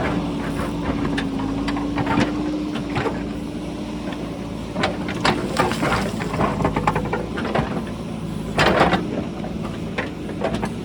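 JCB backhoe loader's diesel engine running steadily while rocks clatter and knock against the bucket and roll down the hillside, with a loud burst of clattering near the end.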